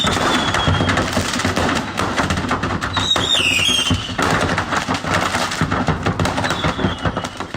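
Tornado wind with a dense, continuous clatter of debris striking and rattling, and a couple of short high whistles that slide downward.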